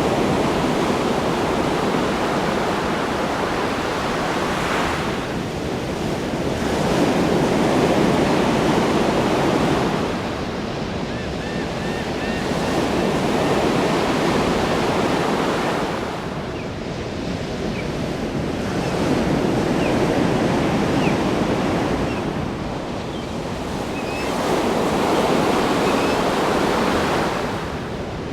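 Ocean waves breaking and washing on a shore, the rush swelling and ebbing in slow surges about every five to six seconds.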